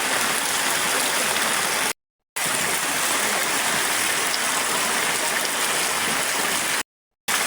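Steady rush of fast-flowing water, like a stream running hard, broken twice by brief cuts to silence, about two seconds in and near the end.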